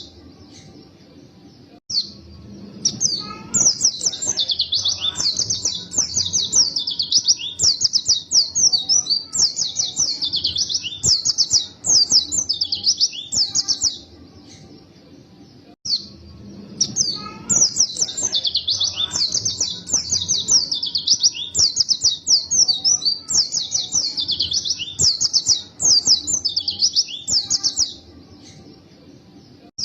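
A white-eye (pleci) singing a long, fast twittering song of rapid high chirps, in full song. The song comes in two phrases of about twelve seconds each, with brief pauses between.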